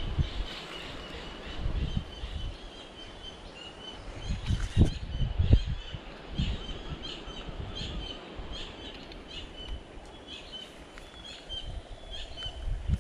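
Small birds chirping, many short repeated calls, over a steady outdoor hiss, with a few low thumps about a third of the way in.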